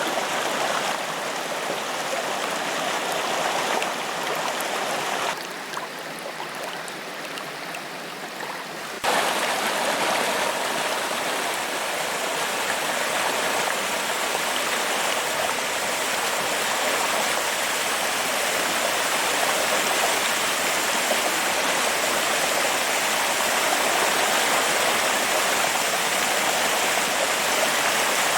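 Forest waterfall rushing steadily as water cascades over rocks. About five seconds in it turns quieter and duller for roughly three seconds, then comes back suddenly at full strength.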